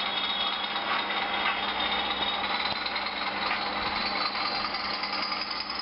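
Bachmann Class 20 model locomotive running under power, its DCC sound decoder playing a diesel engine sound through the small onboard speaker together with the motor and wheel noise on the track. A faint high whine rises slowly in pitch.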